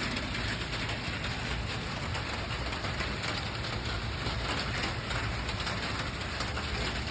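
Steady rain falling and pattering on surfaces, with individual drops ticking through the hiss.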